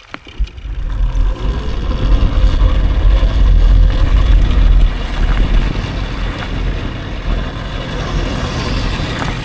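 Riding an electric dirt bike: wind buffeting the microphone and a low rumble from the ride. It comes in after a single click and builds up about a second in, then holds loud and steady.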